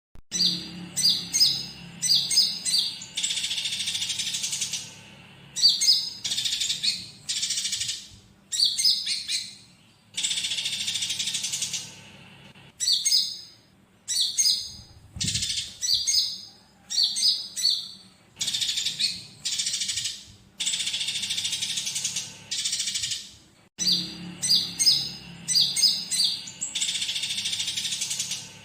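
Recorded song of a konin songbird, with fighting chatter of Eurasian tree sparrows mixed in. It runs as rapid, high, chattering phrases, each about two seconds long, repeating with short pauses between them in a looped training recording.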